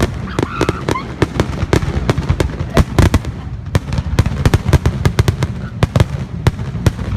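Fireworks going off in a rapid barrage of sharp, overlapping bangs, several a second, with deep booms underneath.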